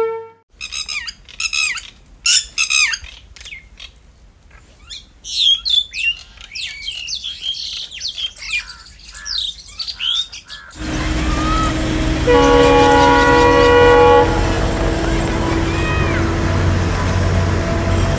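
Birds chirping over a quiet background; then, about eleven seconds in, loud train running noise starts suddenly. A locomotive horn sounds a single blast of about two seconds, several tones at once, and the rumble goes on with birds still chirping.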